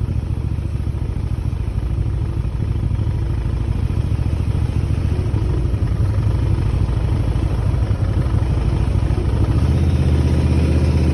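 Motorcycle engine running while being ridden: a steady low drone that grows a little louder and deeper near the end.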